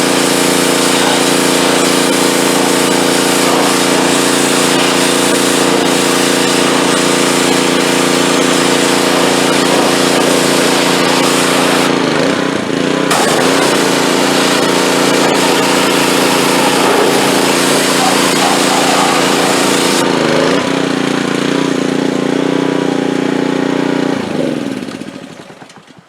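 Pressure washer's small gas engine running steadily under the hiss of the high-pressure water spray. The spray cuts out for about a second around the middle and stops again a few seconds before the end, the engine note dipping briefly each time; near the end the engine is shut off and runs down to a stop.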